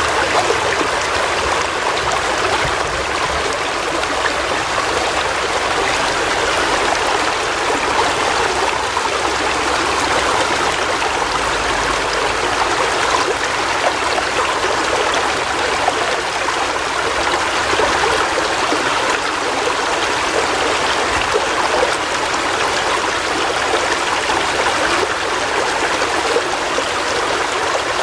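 River water flowing steadily over stones, an even rushing with small splashes and burbles.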